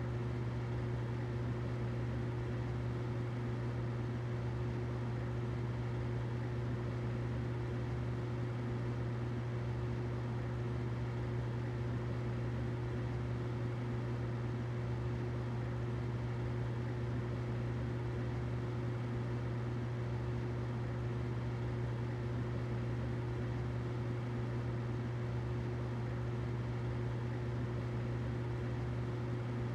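Humidifier running with a steady low hum and a soft even hiss, unchanging throughout.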